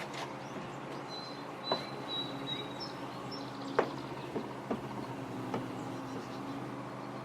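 A steady low hum with a few light, sharp knocks, the loudest near the middle, and a bird chirping in the background in the first half.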